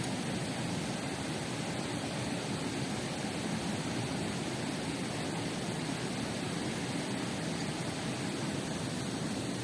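Steady rushing of a waterfall and river, an even wash of water noise with no breaks.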